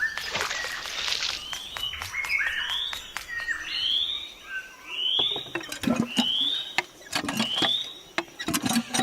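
A bird chirping: a short rising call repeated about once every second, mixed with scattered clicks and knocks and a brief hiss near the start.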